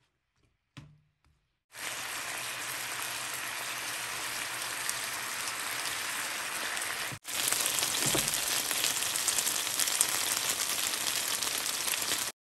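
Chicken breast pieces in chili sauce sizzling in a nonstick frying pan: a steady frying hiss that starts about two seconds in, drops out for an instant near the middle, then comes back louder until just before the end. A soft knock comes about a second in.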